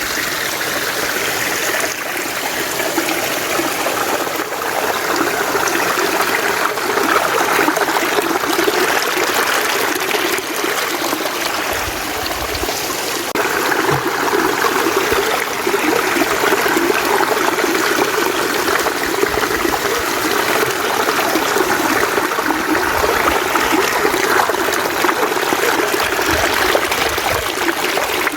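Mountain stream running and trickling over rocks, a steady, unbroken rush of water.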